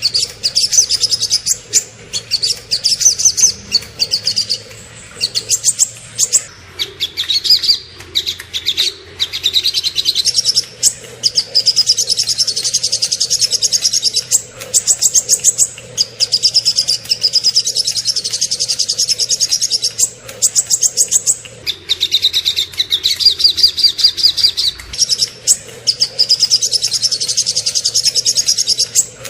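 Small songbirds singing fast, high-pitched trills and rapid-fire chattering phrases, the sharp repeated 'tembakan' notes prized in masteran tutor recordings. The phrases come in bursts of a second or several seconds, with brief pauses between them.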